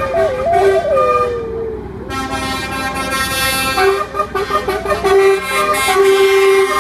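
Truck horns honking as lorries in a convoy pass: a steady horn note throughout, joined about two seconds in by a louder chord of several horns sounding together.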